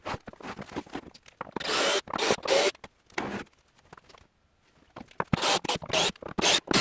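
Short bursts of scraping or rubbing, in two clusters with a quiet gap between, mixed with scattered clicks and knocks.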